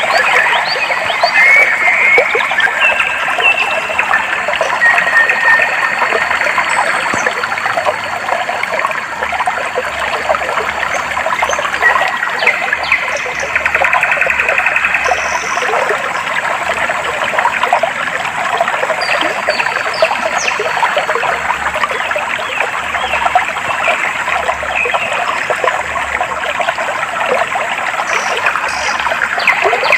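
Clear shallow water trickling and babbling steadily over stones, with small birds chirping and whistling short notes on and off above it.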